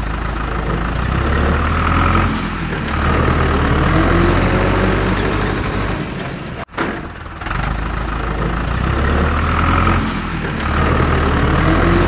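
Low, steady engine rumble of a tractor-type motor, a dubbed engine sound effect that loops about every seven to eight seconds, with a brief cut in the sound about two-thirds of the way through.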